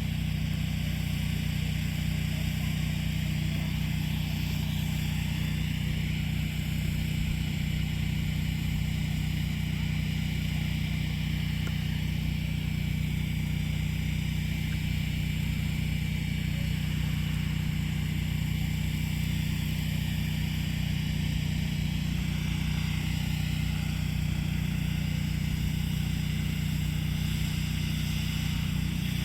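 An engine running steadily at one constant speed, a low even drone that does not change.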